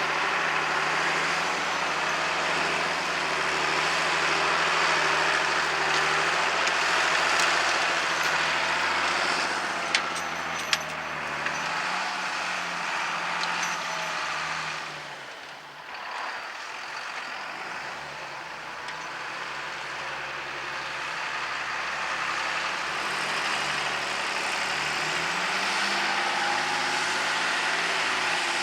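Tractor engine running steadily while ploughing, dipping briefly about halfway through and then picking up again. Two sharp clicks come about ten seconds in.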